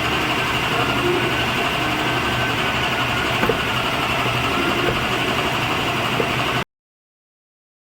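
Electric woodworking machine running steadily, a motor hum with a faint wavering whine and a few light clicks. It cuts off abruptly near the end.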